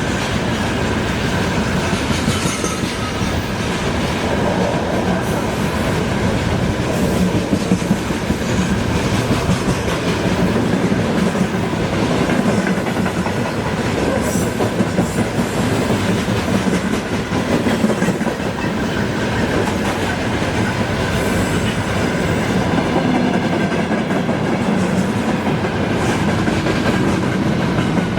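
Freight train rolling past steadily, its wagon wheels clattering over the rail joints.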